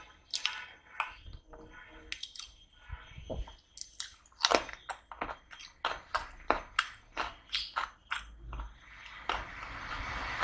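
Close-miked chewing of food: wet mouth smacks and crunching bites, with a quick run of sharp clicks from about four to eight seconds in.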